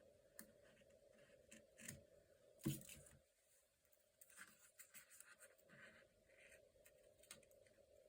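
Quiet, faint rustling and light ticks of paper, stickers and washi tape being handled on a journal page, with one louder tap about two and a half seconds in.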